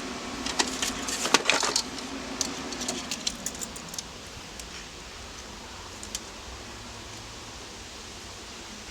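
Small metallic clicks and knocks of tools and parts being handled on a workbench for the first three or four seconds, then only a faint steady background hum.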